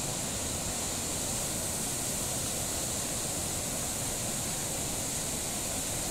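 Steady rush of a waterfall: falling water making an even, unbroken noise.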